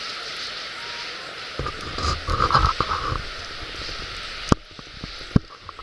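Wood fire burning in a steel fire pit: a steady hiss, with a low rumbling and knocking stretch over about a second and a half early on, and two sharp pops later.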